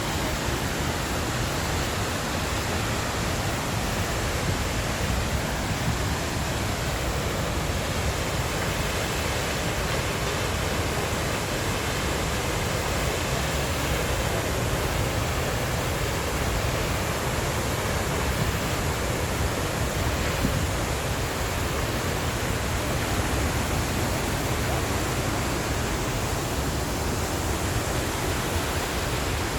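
Waterfall pouring, a steady, unbroken rush of water noise.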